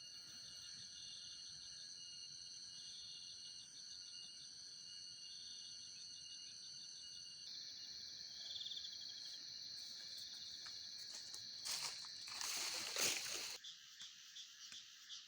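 Night insect chorus: crickets and other insects trilling steadily at a high pitch, with pulsed chirping trills over it. Near the end a louder rushing noise swells for about two seconds and cuts off suddenly, followed by a string of separate clicks.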